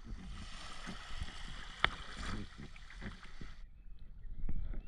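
Wind and water noise on a small boat at sea, with a low rumble and one sharp click about two seconds in. Past three and a half seconds the high hiss cuts off abruptly, leaving only a muffled low rumble.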